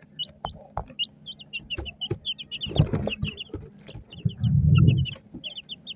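Young chickens peeping in a continuous run of short, high chirps. A few light knocks and two brief low rumbles come partway through.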